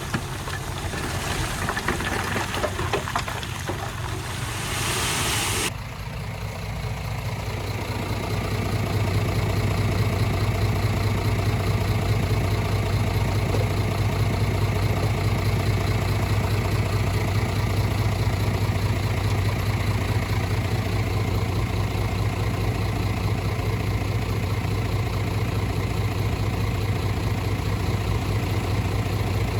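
Heavy diesel engine of earthmoving machinery running steadily with a deep drone. For the first six seconds a rushing noise lies over it, then cuts off suddenly, and the engine grows a little louder soon after.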